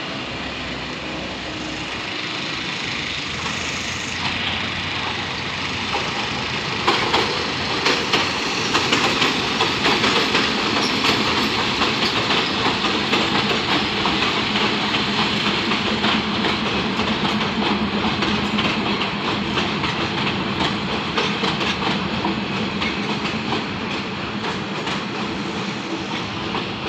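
Diesel-hauled passenger train pulling into a station, its wheels clicking over the rail joints as the carriages roll past. It grows louder about seven seconds in.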